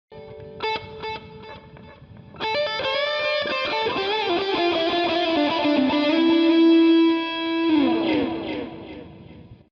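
Electric guitar played through a TC Electronic Nova System multi-effects unit: a short lead phrase. It opens with a few quiet picked notes, then about two and a half seconds in becomes a louder line with bent notes. A long held note bends down near the end before the sound fades out.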